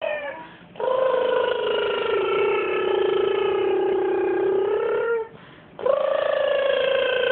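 A woman making a droning airplane-motor noise with her voice and lips. The sound is held on one buzzing pitch that sags slightly. A short one comes first, then a long one of about four seconds, then after a breath another starts near six seconds.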